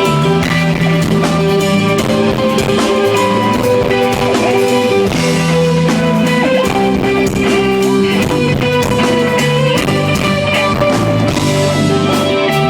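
Live band playing a song, led by electric guitar with drums, steady and loud.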